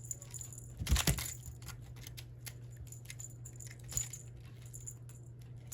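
Scattered light clicks and clinks of small hard objects being handled, with one louder knock about a second in.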